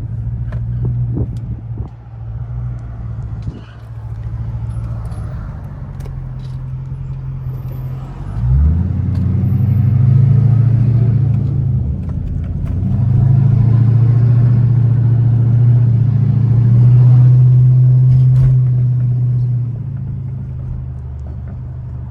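Chrysler 300's Hemi V8 running under way with a steady low drone. About eight seconds in it pulls harder, rising a little in pitch and getting louder, eases briefly around twelve seconds, then settles back to a cruise near the end.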